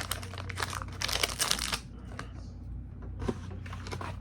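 Plastic protein bar wrapper crinkling and crackling as it is opened, densest for the first two seconds, then a few quieter rustles.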